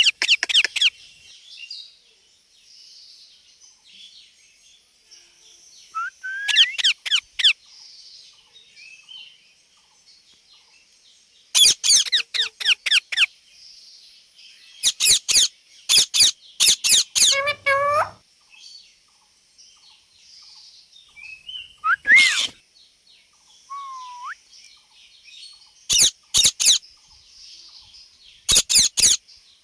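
Indian ringneck parakeet giving bursts of rapid, sharp, high-pitched calls in about six clusters a few seconds apart, some calls sliding quickly up or down in pitch.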